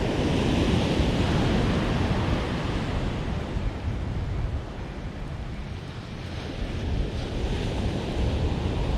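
Ocean surf breaking and washing up the beach, with wind buffeting the microphone; loudest in the first few seconds, easing in the middle and building again near the end.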